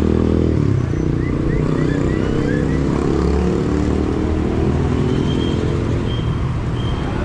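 Steady low rumble of motor-vehicle engines and traffic, with faint short chirps in the first half and a few brief high tones near the end.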